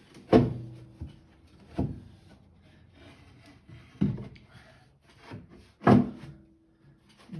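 Knocks and scraping as a cut piece of a fireplace is pushed and tapped into place: four loud sharp knocks about two seconds apart, with smaller taps and rubbing between them.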